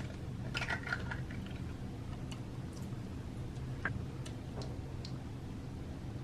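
Scattered light clicks and taps over a steady low hum, with a short cluster of small clicks about half a second to a second in and single ticks later.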